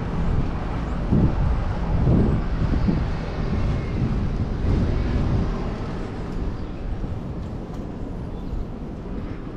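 Road traffic and low wind rumble on the microphone while cycling through city streets, with a few brief swells in the first half.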